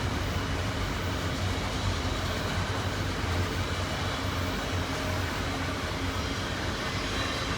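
Intermodal double-stack freight train rolling past: a steady noise of steel wheels on rail with a low hum underneath.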